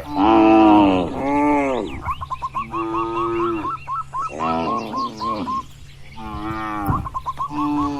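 Cattle mooing, about six long calls in quick succession, some overlapping. A quick, repeated high chirp about four times a second and a steady low hum run behind them.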